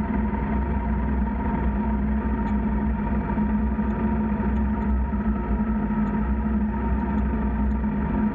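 Motorcycle engine running at a steady speed with road and wind noise, an even drone that holds without change.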